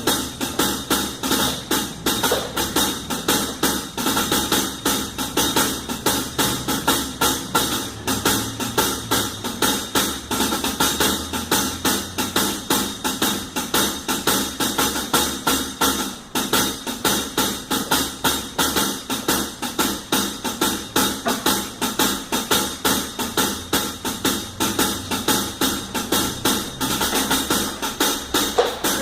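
Drum kit played in a steady, driving beat, about three loud hits a second, with bass drum and snare, and a brief break about halfway through.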